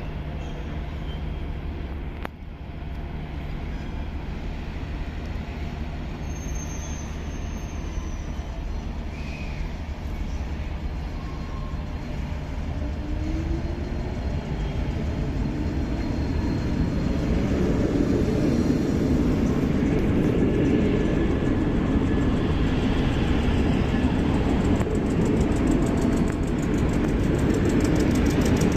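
A train running on the line: a steady low hum, then the rumble of the train grows louder about halfway through and holds there.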